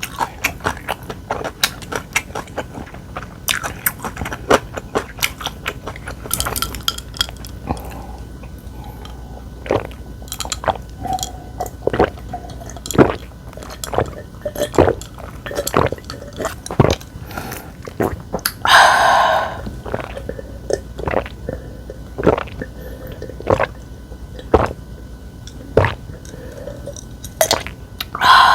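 Close-miked eating sounds: many sharp clicks of utensils against a bowl, with chewing, and one longer noisy sound lasting about a second roughly two-thirds of the way through.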